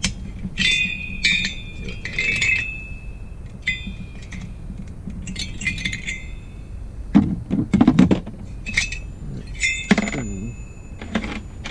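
Metal parts and tools clinking with short ringing taps as the cylinder head of a Falcon 911 motorized-bike engine is worked loose. A cluster of duller knocks and handling noise comes about two-thirds of the way in.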